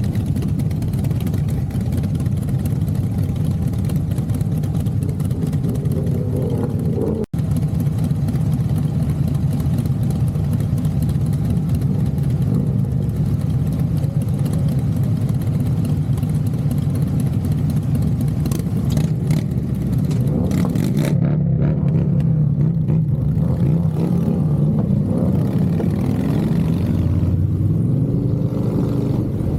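Motorcycle engine running on the move, steady for most of the stretch, revving up with rising pitch a few times near the end. The sound cuts out for an instant about seven seconds in.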